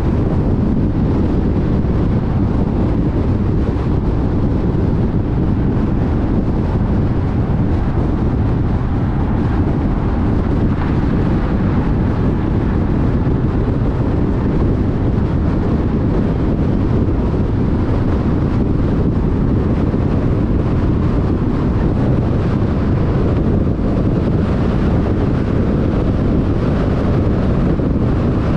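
Steady road noise of a car cruising on a freeway: a constant rush of tyre and wind noise, heaviest in the low range, with no change in level.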